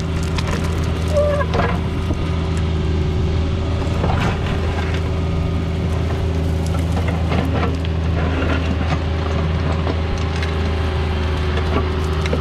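Mini excavator's diesel engine running steadily under work, with scattered knocks and scrapes from digging.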